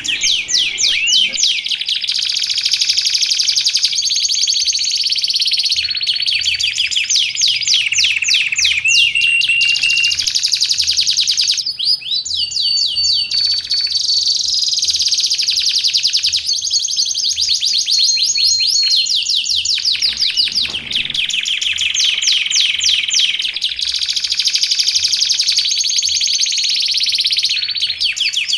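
Canary singing without a break: long, fast, high-pitched trills and rolls, with held whistled notes in between.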